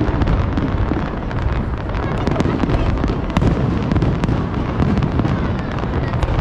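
Fireworks display going off in rapid succession: a continuous deep rumble of booms with many sharp cracks and pops on top, without a break.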